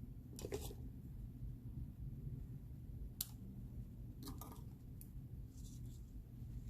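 A few faint, scattered clicks and rustles of cardstock being handled, with a low steady hum underneath.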